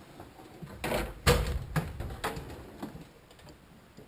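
Metal hand tools clinking and clattering as wrenches are rummaged through and picked up, four or so clanks in the first couple of seconds, then quieter handling.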